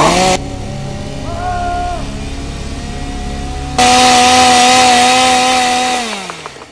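Chainsaw running: it revs up briefly about a second and a half in, then runs loud at full throttle for about two seconds before the pitch falls away as the throttle is released near the end.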